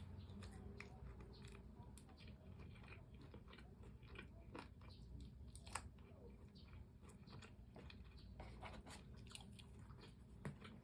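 Close-up crunching of fried chicken being bitten and chewed, in irregular crisp crackles with one louder crunch about six seconds in.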